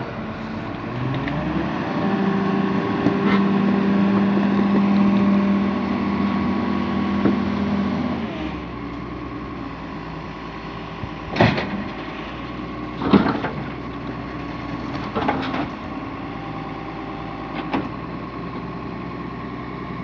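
An engine rises in speed about a second in, holds for several seconds, then drops back to a steady idle. In the second half there are four sharp knocks or clanks.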